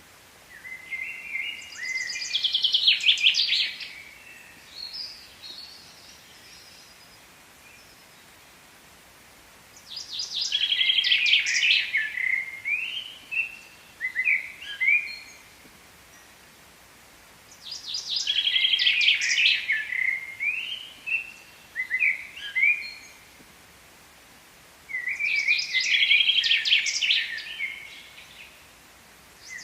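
A songbird singing a fast, jumbled song of trills and quick notes, repeated four times about every eight seconds, with faint outdoor background noise between the songs.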